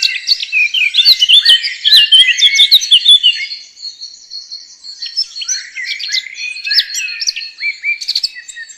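Songbirds chirping and singing, many quick calls overlapping in a busy chorus, thinning to a short lull a little before halfway.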